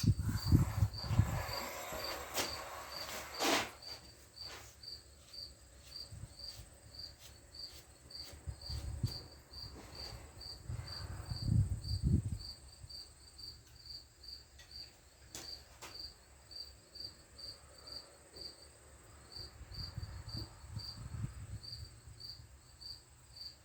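A cricket chirping steadily, about two high chirps a second, throughout. Under it come a few low knocks and handling sounds with some sharp clicks, from moving the measuring setup along the lathe bed.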